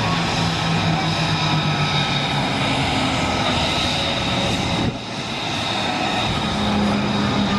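Aircraft engine running with a steady hum, with a brief sudden dip in level about five seconds in.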